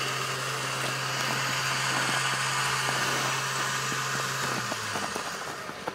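Off-road vehicle engine idling steadily under a broad hiss; the hum drops lower about five seconds in.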